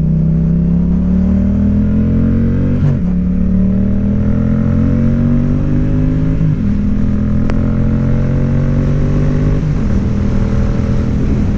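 Motorcycle engine accelerating up through the gears: its pitch climbs steadily in each gear and drops at three upshifts, about three seconds apart.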